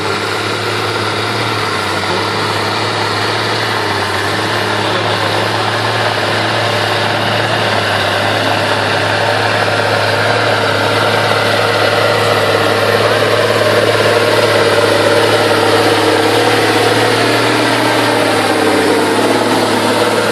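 John Deere tractor engine running steadily at idle, a constant low hum that grows slightly louder in the second half.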